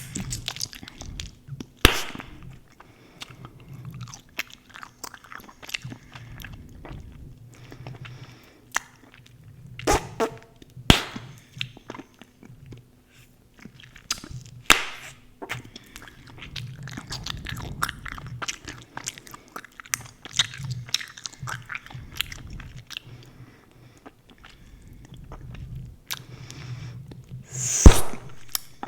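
Gum chewed close to the microphone: irregular wet clicks and smacks of the mouth, with a few sharper snaps and the loudest snap near the end.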